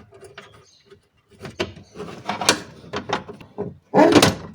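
Metal parts of a car window regulator clicking, knocking and rattling against the door's inner sheet metal as it is worked into place by hand, with the loudest clatter near the end.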